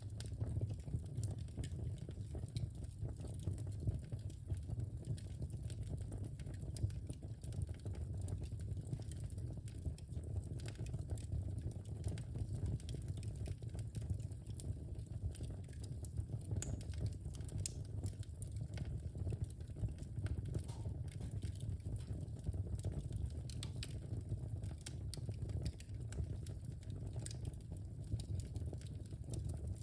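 Wood fire in a fireplace crackling steadily, with frequent small sharp pops over a low, even rumble of burning.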